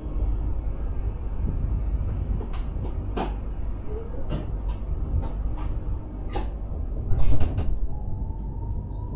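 Electric sprinter train running on the rails, heard from the driver's cab: a steady low rumble with a string of sharp clacks from the wheels on the track, loudest about seven seconds in. Near the end a faint electric motor whine starts to rise, as the train picks up speed.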